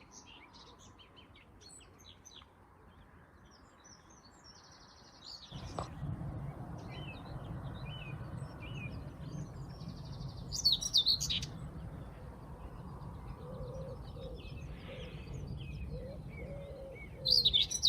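Hedgerow birdsong with many short, high chirps and phrases. A common whitethroat gives its short, scratchy song in loud bursts about ten seconds in and again just before the end. A low rumble comes in about five seconds in.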